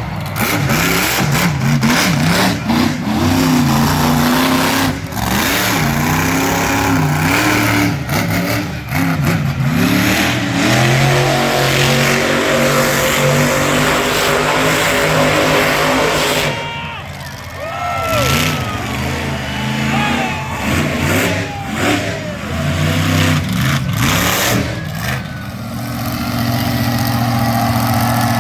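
Monster truck engine revving hard, its pitch climbing and falling again and again as the truck is driven around the arena. It eases off around two-thirds of the way through, then settles into a steadier, lower run near the end.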